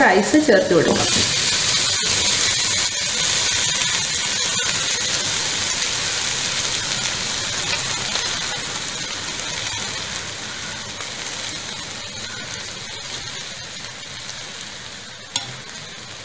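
Oily soya chunk, carrot and potato masala sizzling in a pot, the sizzle fading steadily as the pot cools with the flame switched off. A single sharp click near the end.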